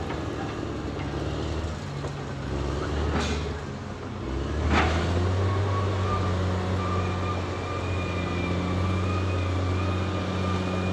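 Caterpillar D6R XL bulldozer's diesel engine running steadily under work, with two sharp knocks a few seconds in and a steady high whine that comes in about halfway and holds.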